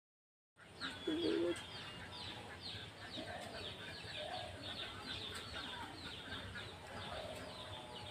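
Outdoor birdsong starting after half a second of silence: small birds giving quick, high, falling chirps, several a second, throughout. A loud, short, lower call about a second in and a few softer lower calls later, such as a fowl's clucks.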